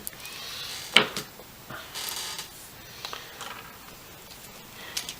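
Hands handling an XT60 connector and battery-lead wires on a workbench: a sharp click about a second in, then soft rustling and a few light taps.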